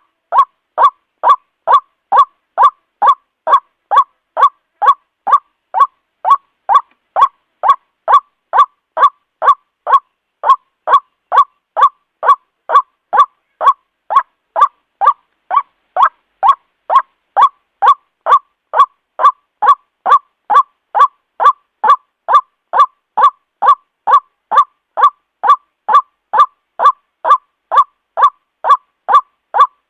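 White-breasted waterhen calling: a short, honking note repeated steadily about twice a second without a break. It is a lure call, played to draw waterhens in.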